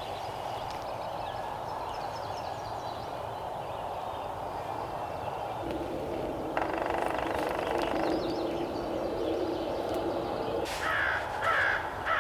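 A crow cawing three times in quick succession near the end, over a steady outdoor hiss with faint songbird chirps. A steady low drone runs for several seconds in the middle.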